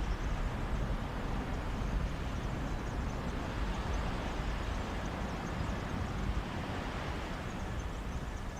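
Mediterranean sea waves on a beach with a sea breeze: a steady rushing noise with a low rumble of wind on the microphone.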